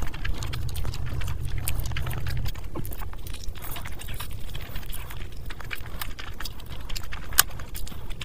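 Close-miked eating: wet chewing and lip smacking of rice, curry and a piece of meat eaten by hand, with many sharp mouth clicks throughout.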